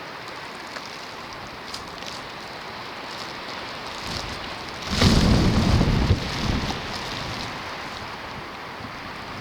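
Steady hiss of a snowstorm, with a sudden loud rumbling gust of wind buffeting the microphone for about a second just past halfway, trailing off soon after.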